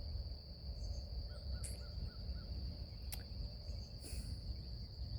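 A chorus of insects making one steady high-pitched drone, with a quick run of five small bird chirps about a second and a half in and a single sharp click about three seconds in, over a low rumble.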